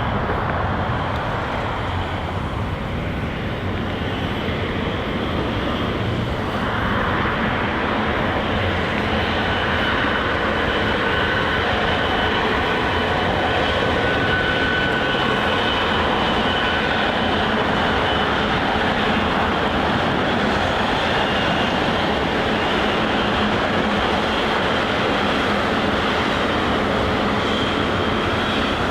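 Steady jet engine noise from a Boeing 777-300ER's GE90 engines running as the airliner lines up on the runway, growing slightly louder about seven seconds in.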